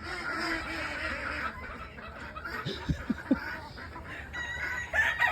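Free-range chickens clucking and chattering together. Near the end a rooster starts a long, held crow.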